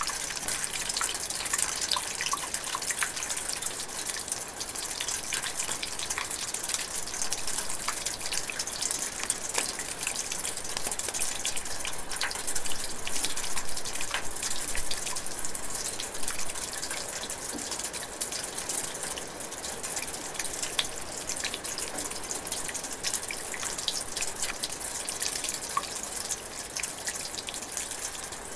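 Light rain drizzling in a forest: a steady high hiss dense with the fine patter of drops.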